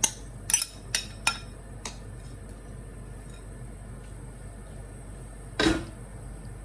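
A cooking utensil knocking against a pan while vegetables are stirred: a quick run of about five clinks in the first two seconds, then one louder knock near the end.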